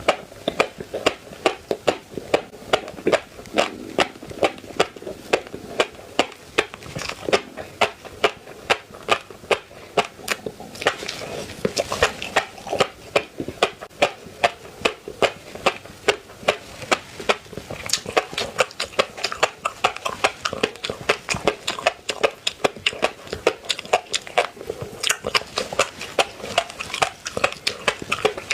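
Close-miked chewing of seafood, wet crunchy bites in a steady rhythm of about two to three chews a second.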